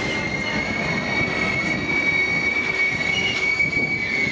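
Rocky Mountaineer passenger train cars rolling slowly into a station, with a steady high-pitched metallic squeal over the low rumble of the wheels on the rails as the train arrives.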